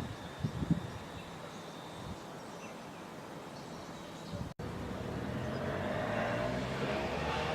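A short low buffeting at first, then after a cut a train approaching along the track, its running noise swelling steadily.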